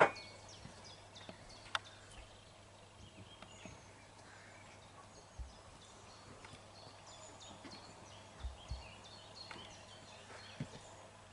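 Faint birdsong: scattered short, high chirps from songbirds across quiet pasture, with a few soft low thumps.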